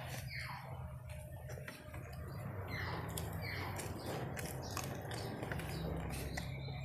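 A person chewing a mouthful of rice and fried chicken close to the microphone: wet mouth clicks and smacks, with a few quick sharp breaths, over a steady low hum.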